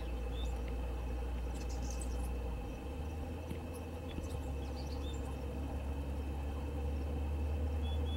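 Steady low hum with a faint continuous insect drone, and a few short, thin, high-pitched chirps from a small bird scattered through.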